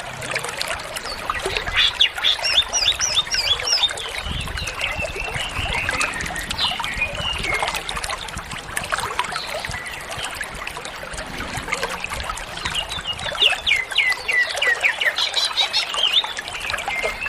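Greater green leafbird (cucak ijo) singing a fast, varied song of chirps and quick downslurred notes. The song comes in two busy runs, a few seconds in and again near the end, over a steady hiss.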